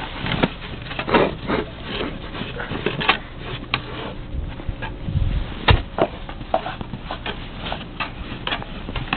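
A run of irregular clicks and knocks, several a second, with no speech.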